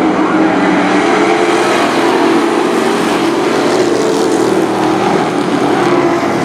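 Race truck engines running hard around an oval track, a steady loud engine note whose pitch drifts slowly up and down.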